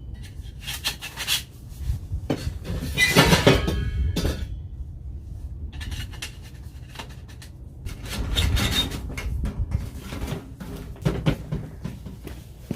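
Irregular clattering, clinking and knocking of metal things being handled, with a few louder bursts of it.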